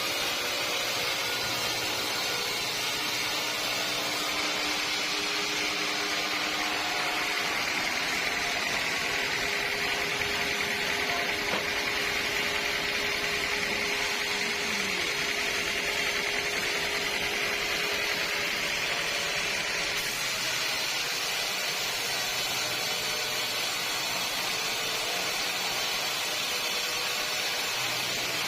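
Sawmill saw running steadily through teak timber, a high whine that grows stronger through the middle stretch.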